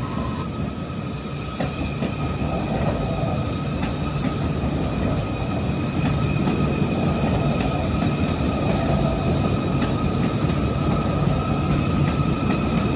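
rapidKL light rail train running close by: a continuous low rumble from the train on the track with a steady high whine over it, getting louder about two and six seconds in.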